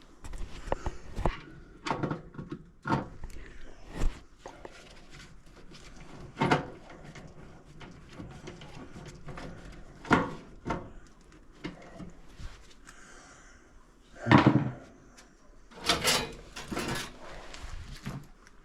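Irregular knocks, clunks and light rattles of hands-on work on furnace blower parts, with louder knocks every few seconds; the heaviest comes about three quarters of the way through.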